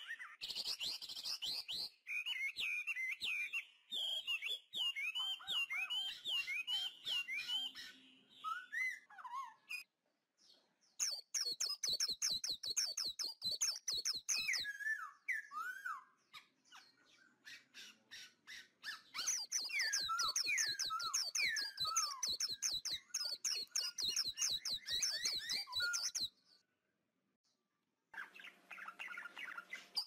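Small birds chirping and twittering in quick, high, repeated notes mixed with downward-sliding calls. The chirping breaks off about ten seconds in, resumes a second later, and cuts off suddenly near the end.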